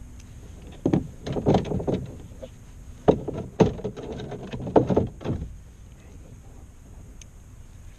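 Knocks and clatter of gear being handled on a kayak: a run of sharp thumps and rattles that starts about a second in and dies away after about five seconds.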